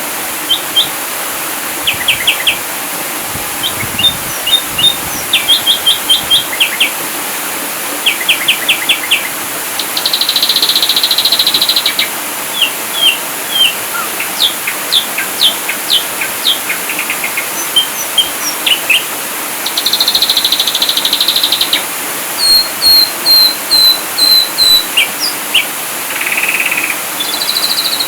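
Ashy drongo singing a varied, loud song: quick series of sharp whistled notes, two buzzy rattles, and a run of repeated high notes, over a steady hiss.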